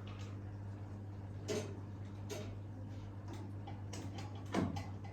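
A few sharp clicks and knocks of small parts being handled during cleaning of a coffee machine, the loudest near the end, over a steady low hum.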